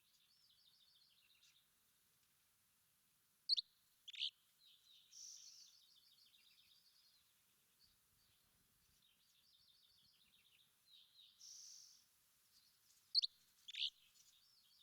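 Small songbirds singing: fast, high twittering trills broken by short clear held notes, with a pair of sharp downward-sweeping chirps about three and a half seconds in and again near the end.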